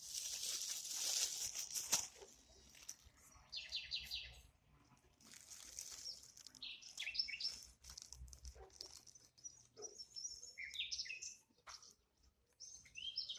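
Small songbirds chirping and singing in short bursts of quick repeated notes and falling runs, with a brief rustling noise in the first two seconds.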